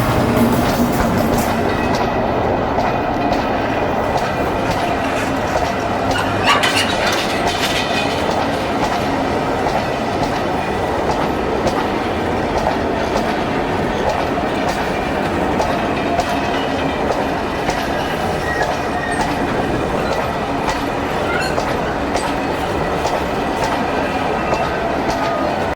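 A train's wagons rolling past close by: a steady rumble with wheels clicking over rail joints.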